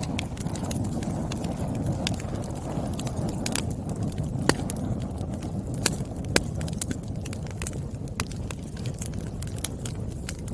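Wood fire burning, a steady low rush of flames with irregular sharp crackles and pops from the burning logs, a few louder pops around the middle.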